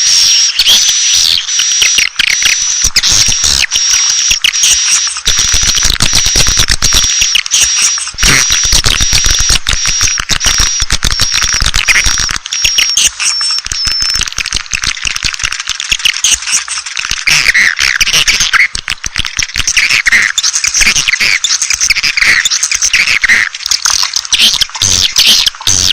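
Swiftlet lure call: a dense, continuous chatter of many swiftlets twittering and clicking, with a steady high tone that stops about halfway through.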